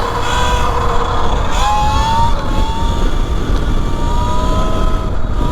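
Electric dirt bike's motor whining, rising in pitch as it picks up speed about a second and a half in, then holding fairly steady. Heavy wind rumble on the microphone runs under it.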